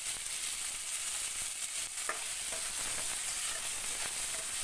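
Sliced onions and tomatoes sizzling in hot oil in a metal wok, with the steady hiss of frying and a spatula knocking and scraping the pan as they are stirred.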